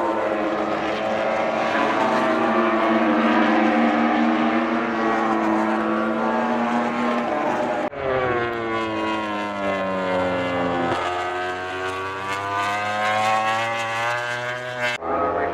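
MotoGP race bike engines running at high revs. About halfway through the sound changes suddenly, and the engine pitch then falls steadily, with a step down near the end.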